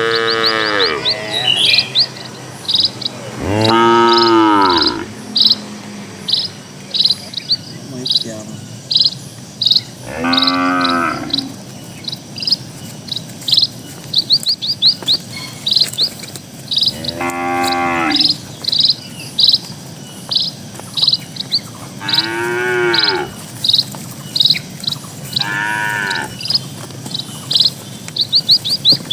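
Village cattle mooing, about six separate calls several seconds apart, each rising then falling in pitch. A bird chirps in quick short notes throughout.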